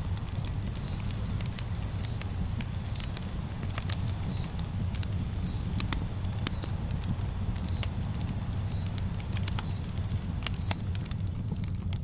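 Wood fire burning: crackling with irregular sharp pops and snaps over a steady low rumble. A short, high chirp repeats about once a second.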